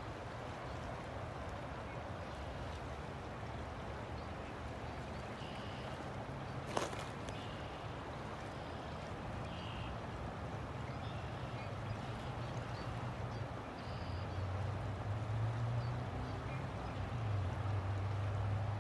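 River water flowing steadily, with a low rumble that grows louder about fourteen seconds in. A single sharp click sounds about seven seconds in, and a few faint short high chirps come and go.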